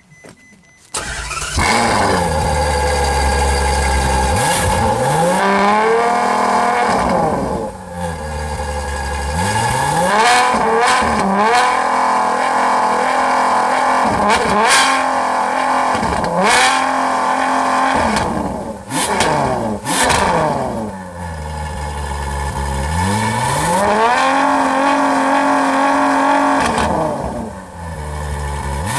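Ferrari F12 Berlinetta's V12 engine comes in loudly about a second in with a deep idle. It is then revved high several times, each rev climbing and falling back to idle, with a few sharp cracks between revs.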